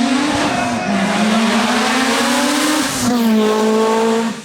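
Rally car engine running hard under acceleration, the pitch climbing and then dropping at gear changes about a second in and again near three seconds, with tyre noise underneath.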